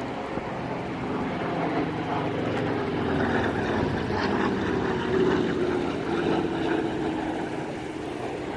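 Piston-engine propeller warplane flying past, its engine drone growing louder to a peak midway and easing off near the end.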